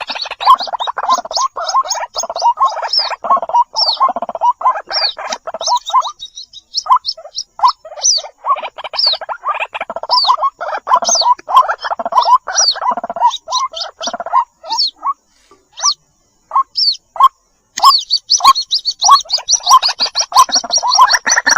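White-breasted waterhen (ruak-ruak) lure recording of chicks calling for their mother: a dense run of rapid, repeated calls with high, thin, falling peeps above them. The calls break off for a moment about three-quarters of the way through, then resume.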